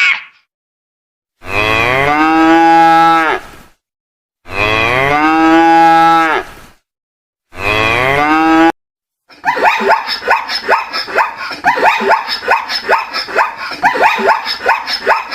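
A cow mooing three times, each moo a long call falling in pitch with short pauses between. Then, from about nine seconds in, a fast run of short repeated animal calls.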